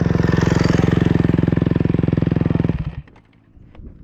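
Motocross dirt bike engine running loud and steady at an even pitch, then the sound cuts off abruptly about three quarters of the way through, followed by a few light clicks.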